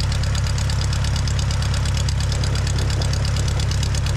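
Aeronca 7AC Champ's engine idling steadily while the plane taxis, with a rapid, even firing beat, heard from inside the cabin.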